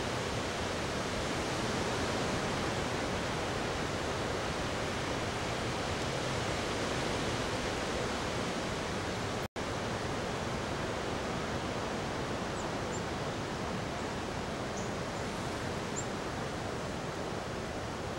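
Steady rushing hiss with no pitch, broken by a split-second total dropout about nine and a half seconds in. A few faint, very short high chirps appear in the second half.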